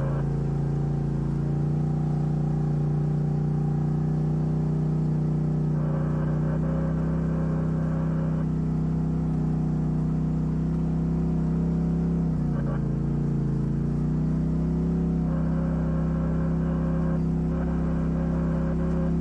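Off-road vehicle's engine running steadily under light throttle, with the revs dipping briefly and picking back up about two-thirds of the way through.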